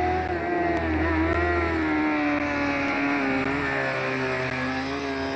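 Racing car's engine running under load on a timed stage. Its pitch dips and rises about a second in, then falls slowly.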